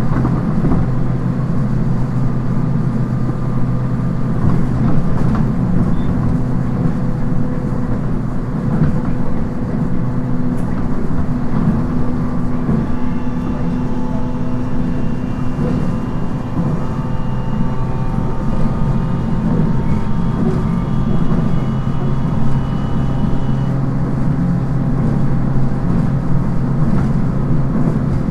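Running sound from inside a JR East 719 series electric multiple unit at speed: a steady rumble of wheels on rail with the thyristor-controlled traction motors' hum, carrying several constant tones. This set is known for an unusual running noise.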